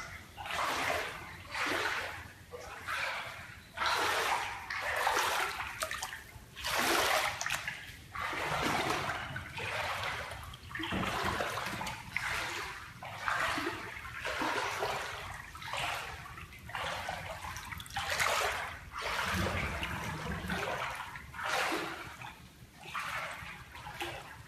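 Floodwater splashing and sloshing in a steady rhythm, about one splash every second or so.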